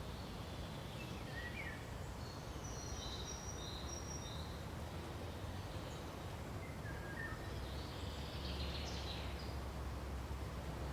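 Birds chirping in short high notes, in two scattered bursts of calls, over a steady low rumble of background noise.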